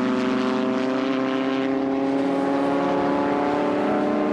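Racing car engine running hard at high revs, its note held steady.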